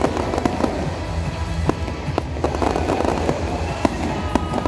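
Fireworks display of spark fountains and low crackling bursts, a fast, irregular run of sharp cracks and pops. Music plays underneath.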